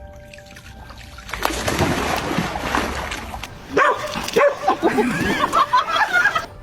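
A dog plunging into water: a loud splash about a second and a half in, then high, wavering cries.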